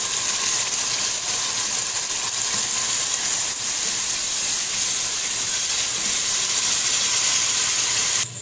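Tomato paste frying in hot oil with browned onions and spices in a metal pot: a steady sizzling hiss as the masala is fried, cutting off suddenly near the end.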